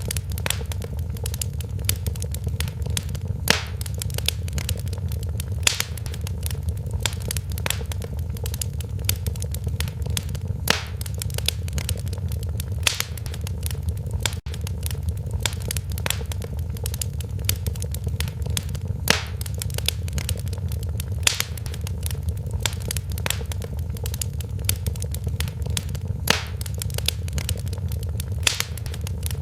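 Wood fire burning in a fireplace: a steady low rumble with constant irregular crackling and occasional louder pops.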